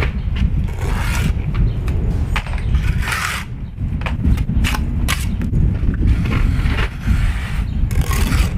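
Bricklaying work with a trowel and mortar: repeated short scrapes and knocks, over a steady low rumble.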